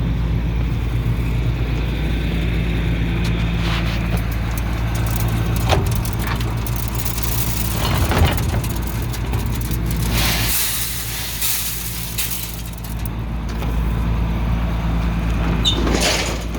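An engine running steadily at a constant speed, with scattered clicks and rattles and a stretch of hiss about two-thirds of the way through.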